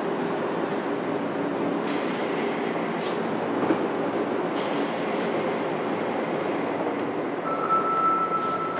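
JR Kyushu 103 series 1500 electric train running, heard from inside motor car MoHa 103-1504: a steady rumble of wheels on rail with a low hum from the traction motors. A thin, steady high squeal sets in near the end.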